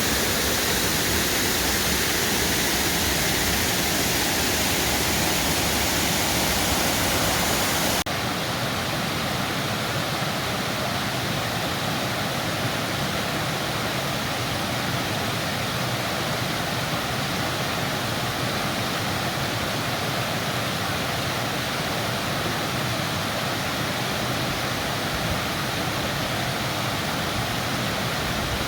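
Waterfall: a steady rush of falling water. About eight seconds in it changes abruptly, becoming a little quieter and less hissy.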